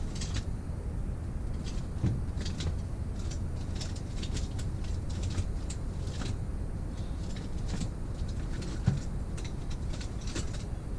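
Small metal clicks and clinks of tools and parts being handled during the teardown of a motorized-bicycle engine, over a steady low hum. Two louder knocks come about two seconds in and again later on.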